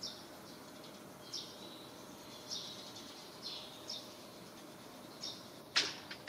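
Short, high chirps from a small bird, repeated every second or so, with a single sharp click near the end.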